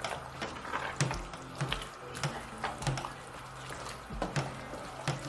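Spoon stirring a thick egusi soup in a pot, knocking and scraping against the pot in a run of irregular clicks, about two a second.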